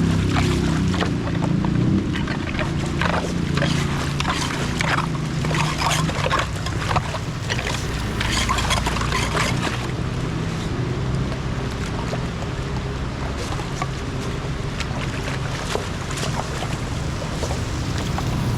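Rushing floodwater and rain, with many sharp splashes and clatters through the first ten seconds that then thin out, and wind noise on the microphone.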